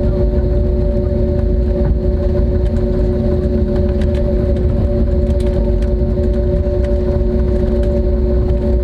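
Cabin noise inside an Airbus A320neo on the ground: a steady low rumble with a constant droning hum and occasional light rattles.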